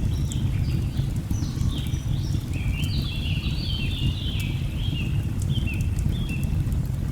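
Nature-sound mix: the steady low rush of a waterfall under a busy chorus of short, downward-slurred bird chirps, thickest about a third of the way in, with a few faint crackles from a log fire.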